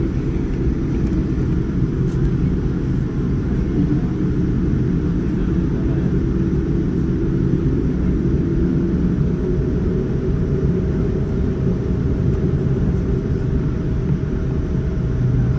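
Steady cabin rumble inside a Boeing 787-9 airliner heard from a window seat: a deep, even roar of engines and airflow that holds level throughout. A faint steady hum joins about nine seconds in.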